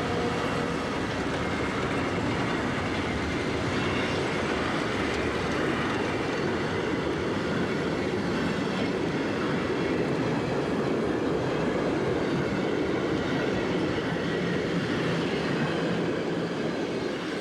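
A train running on rails: a steady rolling noise of wheels on track, with a faint clickety-clack.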